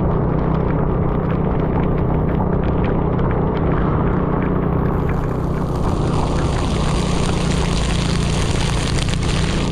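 Scooter engine running steadily during a ride in heavy rain, under a wash of wind and water noise; a higher hiss comes in about five seconds in and holds.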